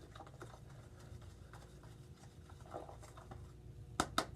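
Faint scraping of a toothbrush stirring hair dye in a plastic container, then a quick run of about five sharp taps near the end.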